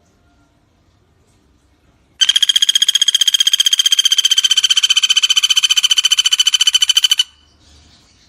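Pelatuk bawang woodpecker's call: a loud, very rapid rattling trill on one steady pitch, starting about two seconds in, held for about five seconds and cutting off abruptly.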